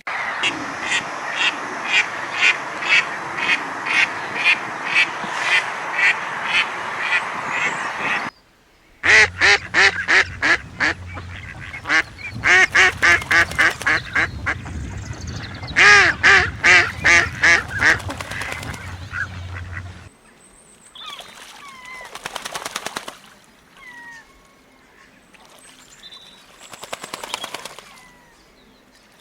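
Ducks quacking in rapid runs, several calls a second, with sudden breaks at about eight and twenty seconds in. After the second break it is quieter, with a few thin high chirps and one more short run of quacks near the end.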